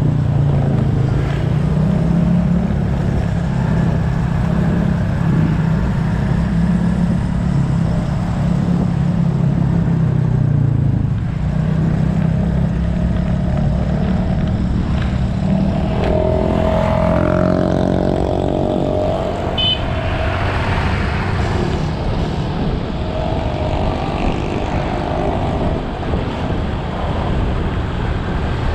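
Motorbike engine running under way, recorded on the moving bike, with steady wind and road noise. About two-thirds through the low engine note drops away, and another engine's pitch briefly rises and falls in the traffic.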